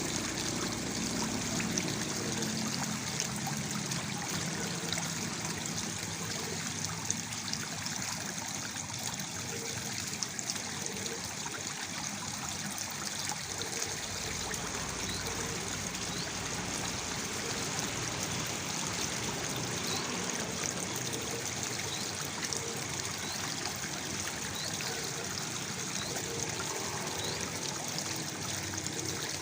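Waterfall water splashing and trickling steadily, with many small droplet splashes.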